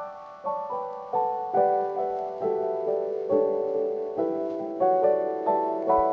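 Soft piano music: a slow melody of single struck notes, each ringing and fading, about one or two notes a second.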